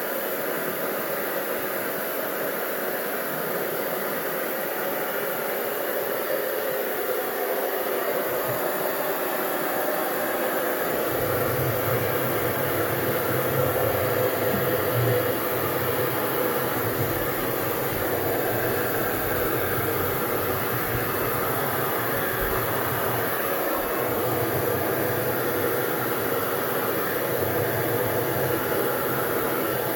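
Hair dryer blowing steadily, a rushing hiss of air; about eleven seconds in a low hum joins it.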